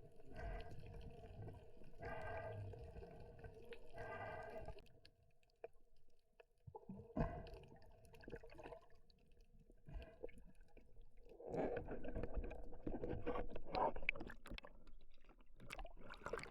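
Underwater sound heard through a camera housing: water gurgling and crackling, with scattered sharp clicks that thicken into a dense crackle in the last few seconds. Three short buzzing bursts, about two seconds apart, come in the first few seconds.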